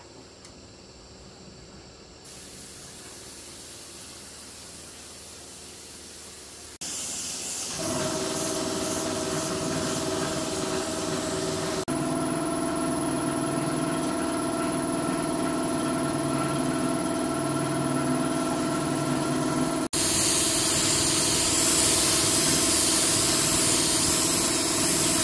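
A steady-running machine with a hissing, spray-like noise over it. It starts faint, then jumps louder in abrupt steps about 7 and 20 seconds in.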